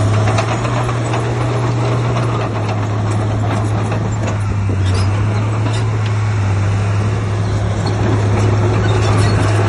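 Heavy diesel engine of earthmoving machinery running steadily, with a strong low hum, noise across the range and a few short knocks.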